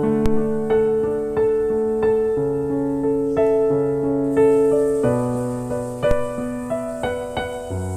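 Slow, gentle piano music: single notes over held chords that change every second or so. A faint hiss joins in the background about halfway through.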